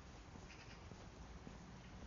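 Near silence with a faint, short animal call about half a second in.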